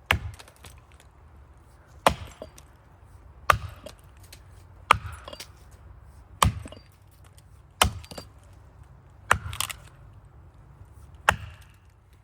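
Axe chopping into a maple trunk: eight hard, evenly paced blows, about one every second and a half, each with a short crack of splitting wood, as the felling notch is cut toward its apex.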